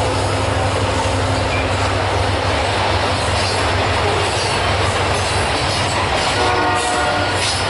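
Loaded covered grain hopper cars of a freight train rolling past: a loud, steady rumble of wheels on rail. Near the end a brief squealing tone rises over it for about a second.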